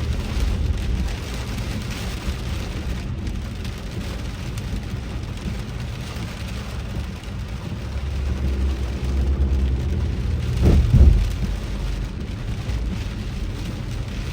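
Heavy rain on a moving car with the steady low rumble of the car driving on wet road. About ten and a half seconds in, a louder low rumble swells and fades within about a second.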